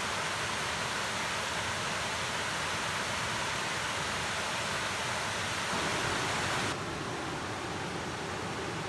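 Waterfall pouring, a steady rushing hiss. About two-thirds of the way in, the sound abruptly turns duller and less hissy.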